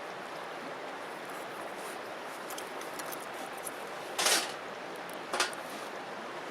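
Wood campfire crackling: a steady hiss with scattered small pops, and two louder snaps about four seconds and five and a half seconds in.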